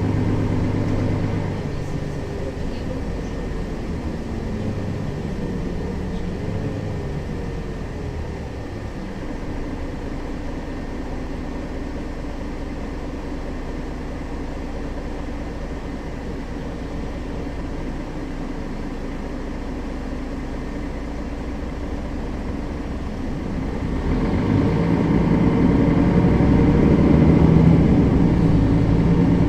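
Mercedes-Benz Citaro facelift city bus engine and drivetrain running under way. The pitch slides over the first several seconds, the engine runs lower and steadier through the middle, then pulls louder near the end as the bus accelerates.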